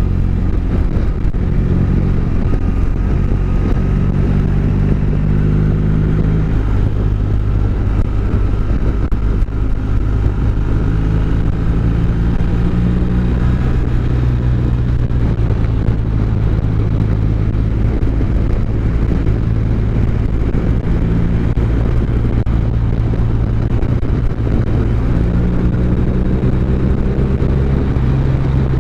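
Motorcycle engine running steadily under way, its note shifting slightly a few times.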